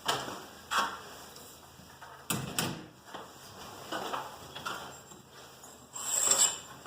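Metal garage door torsion springs and hardware being handled: a series of separate knocks and clanks, with a longer metallic clatter about six seconds in.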